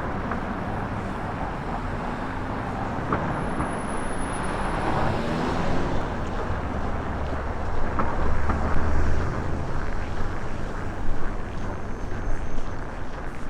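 Storm wind buffeting an unshielded microphone over a steady rush of city traffic, the gusts growing stronger and more uneven in the second half.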